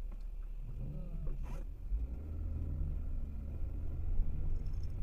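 Low, steady rumble of a road vehicle driving, with a brief faint click about one and a half seconds in.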